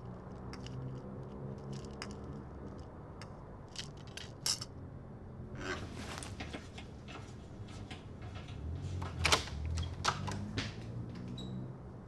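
Small metallic clinks and rustling as a backpack is handled, its zipper pulls and buckles jingling, with the loudest clinks a little after the middle. A low steady hum runs underneath.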